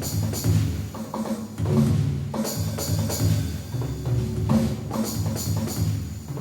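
Drumming jam on a kit set to a timpani-type sound: deep, pitched drum strokes moving between notes in a steady rhythm, with bright cymbal- or tambourine-like hits over them.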